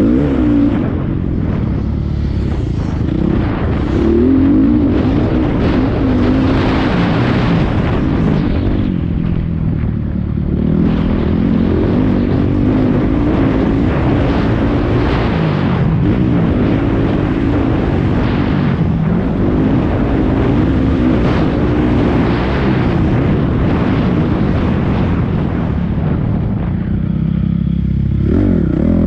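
Motocross dirt bike engine revving up and down over and over as it is ridden around a track, its pitch rising and falling with throttle and gear changes.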